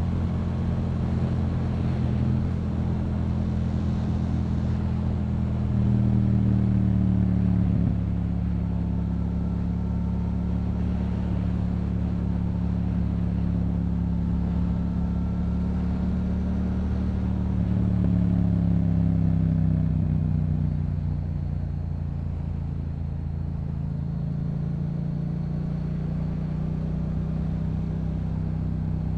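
Yamaha MT-07's parallel-twin engine through a Yoshimura aftermarket exhaust, running steadily at cruising speed. The note swells twice, a few seconds in and again past the middle, then eases off to a slightly lower, quieter drone.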